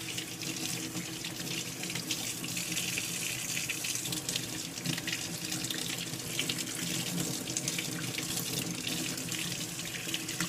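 Kitchen tap running steadily into the sink while hands are washed under it to scrub off paint.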